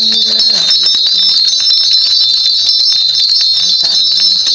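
A shaman's cluster of ritual bells shaken continuously in a steady, dense jingling.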